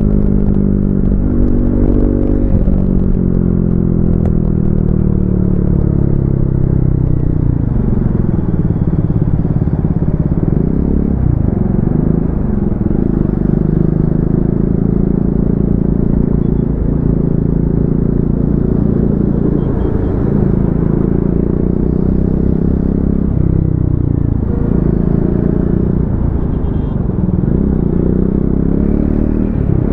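Triumph Speed 400 single-cylinder motorcycle engine running under load on the move. Its note drops sharply and climbs back several times, and rises again near the end.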